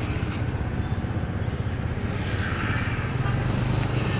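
Motorcycle engine idling steadily, with a low, even hum.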